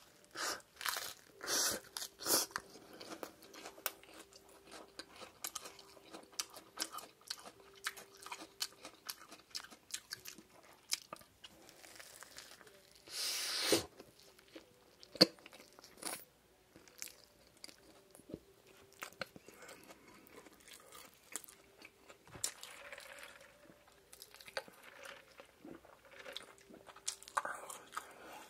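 Close-miked biting and chewing of a burger with a breaded, fried shrimp patty: crisp crunches and wet chewing clicks, with the loudest crunchy bite about halfway through.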